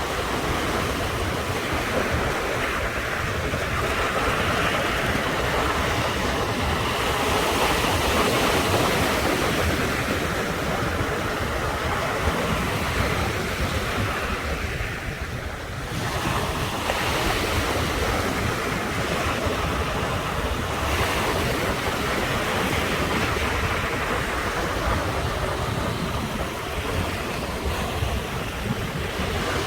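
Ocean surf washing onto the shore in a continuous rushing wash, easing briefly about halfway through and then building again.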